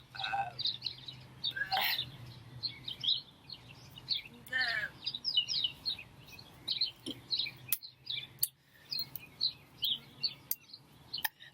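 Small birds chirping, many short quick falling chirps one after another, over a steady low hum.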